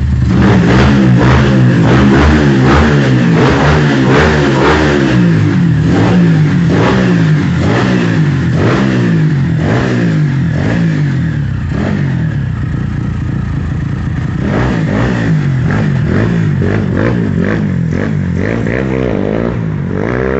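Tuned pushrod motorcycle engine with a CRF piston, running on ethanol, revved again and again in quick blips. The pitch rises and falls about once a second, with sharp crackles through the exhaust.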